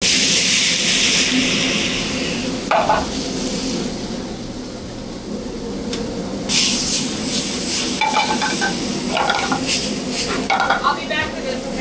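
Shrimp and vegetables sizzling in a hot sauté pan, loudest at the start as liquid is squeezed in from a squeeze bottle and again about six and a half seconds in. A few short ringing clinks come near the end.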